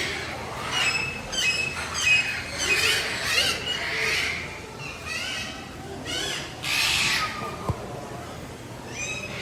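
Many captive birds calling over one another in an aviary: a chorus of shrill squawks and whistled calls, some sliding in pitch. A single sharp click sounds near the end.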